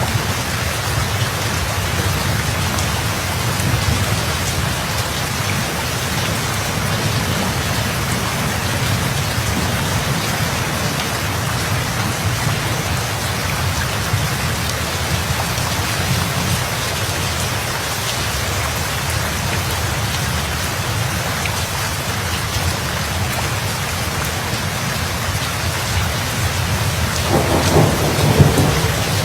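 Steady heavy rain falling, with a rumble of thunder building near the end.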